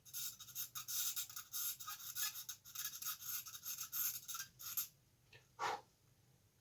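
Rapid back-and-forth scratching on a small plastic model part for about five seconds, then a single short knock a little later.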